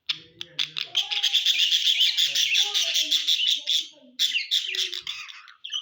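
Budgerigars chattering, a dense run of rapid high chirps that breaks off for a moment about four seconds in and then resumes briefly.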